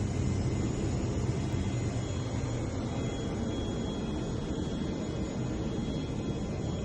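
Steady jet aircraft noise: an even rushing sound with faint, steady high-pitched whining tones over it.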